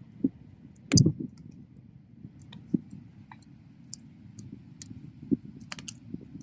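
Wood bonfire crackling: scattered sharp pops and snaps, the loudest about a second in, over a low steady rush of the flames.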